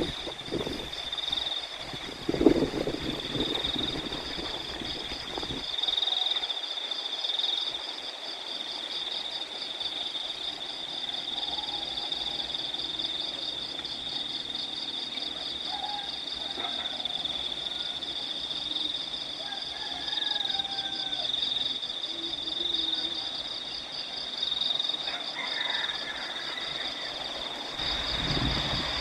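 Steady high-pitched pulsing chirr of crickets, with scattered short bird calls over it. Wind buffets the microphone for the first few seconds, with a sharp thump about two and a half seconds in, and again near the end.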